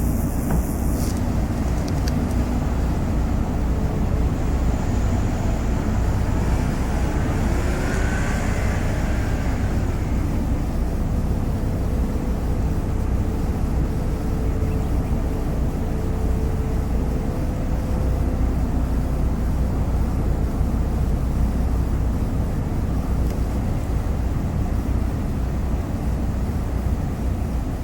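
Ferry Mishima's engine running under way, a steady low rumble.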